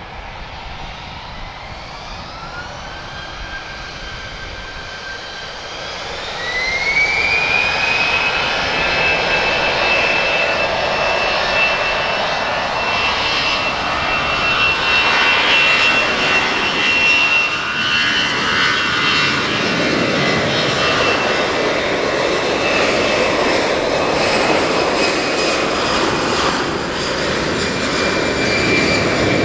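Airbus A320's CFM56 jet engines spooling up, the whine rising in two steps over the first seven seconds, then running loud and steady with a high held whine: thrust being set for the takeoff roll.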